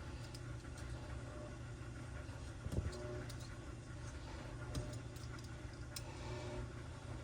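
Light handling sounds on a workbench: a few faint clicks and one louder knock just under three seconds in, over a steady low hum.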